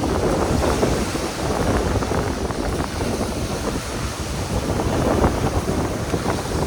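Strong wind buffeting the microphone in uneven gusts, over the wash of surf.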